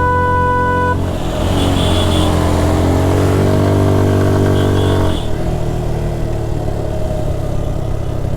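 Motorcycle engine running under way, with a steady horn blast that cuts off about a second in. The engine note rises and falls over the next few seconds, then drops quieter about five seconds in.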